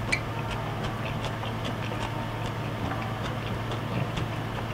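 Close-up chewing of a mouthful of fried duck: many small irregular wet clicks from the mouth, over a steady low hum.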